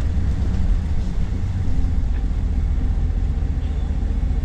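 Steady low rumble of a vehicle driving, heard from inside the cabin: engine and road noise.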